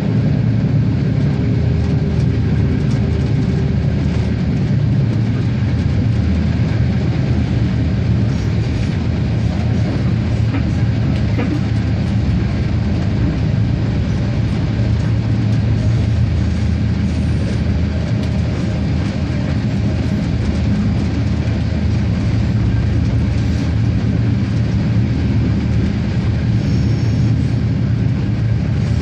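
RegioSprinter diesel railcar running along the line: a steady engine drone with the rumble of wheels on the rails.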